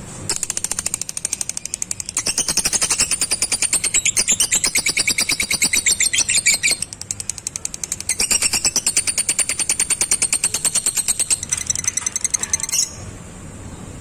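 Lovebird 'ngekek': a long, rapid, high-pitched chattering trill of sharp repeated notes, in two long runs with a brief dip about seven seconds in, cutting off suddenly near the end.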